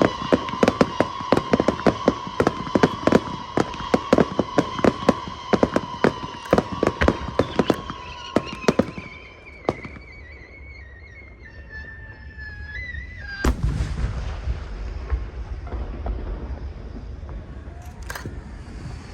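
Aerial fireworks going off: a fast, dense run of sharp cracks for the first half, with a steady high tone under them that slides lower and then stops. The cracking thins out, a single heavy, deep boom comes about two-thirds of the way through, and a couple more cracks follow near the end.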